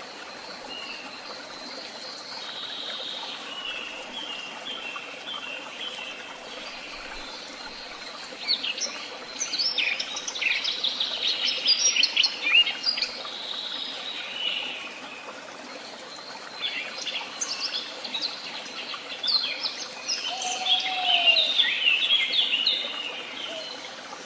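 Several songbirds singing together in woodland: thin high notes and quick twittering trills, busiest about a third of the way in and again near the end, with a short lower whistle near the end, over a steady background hiss.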